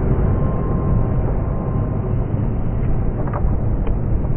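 Freight train running past, a loud steady low rumble, with a faint steady whine for the first couple of seconds.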